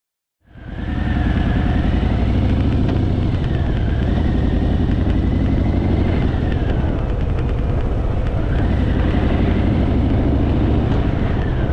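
Harley-Davidson Fat Boy's V-twin engine running steadily under way, cutting in abruptly about half a second in, with a thin higher whine that rises and falls over the engine note.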